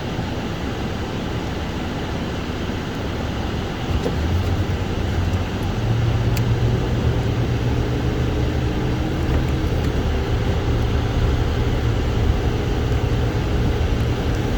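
Car driving on a snow-covered road, heard from inside the cabin: a steady rumble of tyres and engine. The low rumble grows louder about four seconds in and again about six seconds in.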